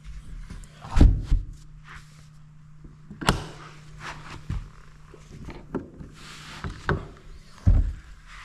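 Scattered hollow knocks and thumps of the boat's rod locker lids and deck being handled, the loudest about a second in.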